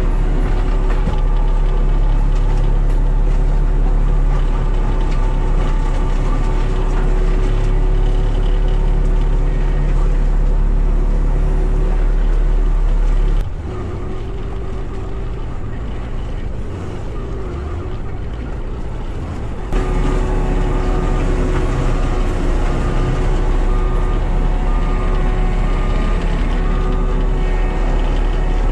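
Cat skid steer's diesel engine running steadily under load, dropping quieter for about six seconds midway before coming back up.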